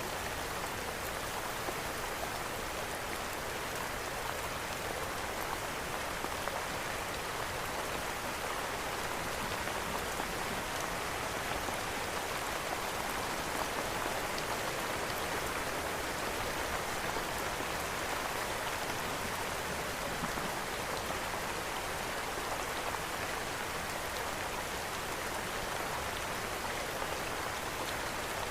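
Steady, even rain falling on a surface, with faint scattered ticks of a crackling wood fire mixed in.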